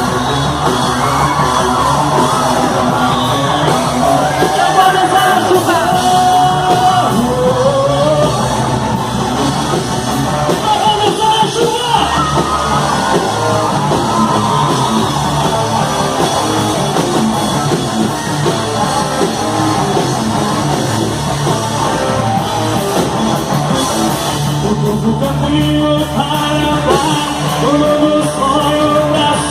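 Live band playing a rock-style worship song, with singing over guitar, bass and drums and occasional shouts.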